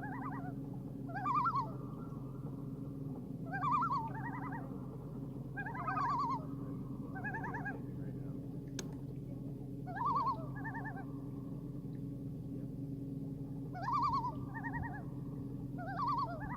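Common loons giving short, rapidly quavering tremolo calls, about seven phrases spaced a second or two apart, over a steady low hum.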